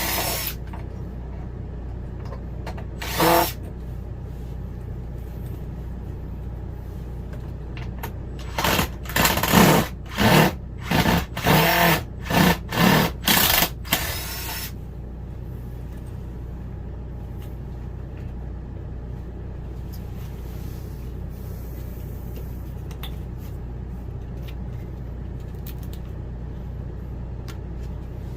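A power drill run in short bursts: once about three seconds in, then about eight quick bursts in a row around the middle, over a steady low hum.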